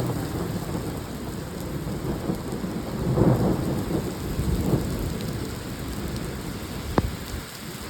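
Heavy rain pouring down under trees, with thunder rumbling low beneath it and swelling a couple of times. There is a single sharp click near the end.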